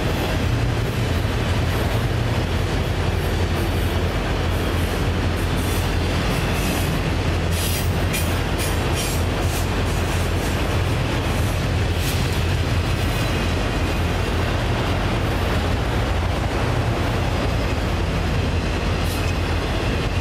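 Freight train of autorack cars rolling past: a steady rumble of steel wheels on rail, with a few sharp clicks from the wheels and rail joints.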